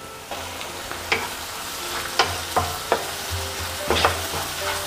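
Onion and ginger-garlic paste sizzling in hot oil and ghee in a kadhai, with a steady frying hiss. A spatula stirring the pan strikes it with several sharp clinks.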